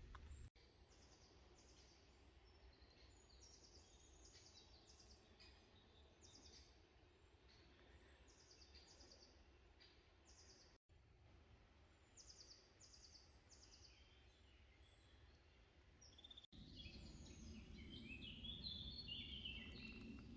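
Faint woodland birdsong: one bird repeats short, high, falling chirps in small series. A few seconds before the end a different, more varied warbling song comes in over a low outdoor hum.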